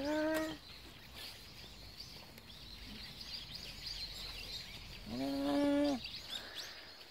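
Small birds chirping steadily, many short high chirps. A woman's voice calls briefly at the start, and a louder held vocal note at a steady pitch sounds for under a second about five seconds in.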